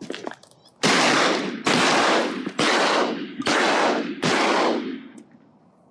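Five loud shotgun shots fired in quick succession, about one a second, each with a short echoing tail: hunters shooting at ducks flying overhead.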